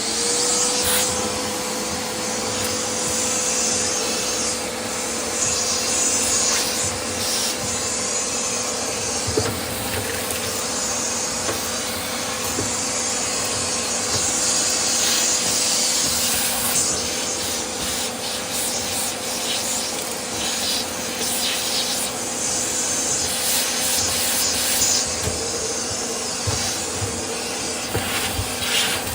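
Vacuum cleaner running with a flexible dryer-lint attachment on its hose, sucking lint out of a clothes dryer's lint trap. A steady motor whine settles in pitch right at the start, over rushing air that swells and fades in irregular surges.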